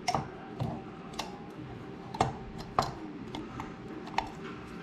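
Irregular sharp clicks and light taps of small parts being handled while a Honda ATC185 recoil starter is reassembled, about six in all, over a faint steady tone.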